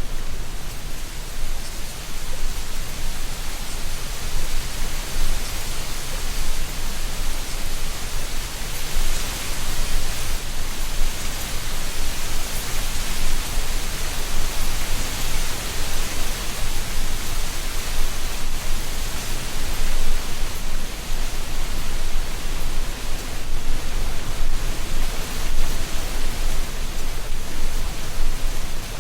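Wind blowing through tree canopies, rustling dry autumn leaves: a steady rushing noise that keeps swelling and easing a little.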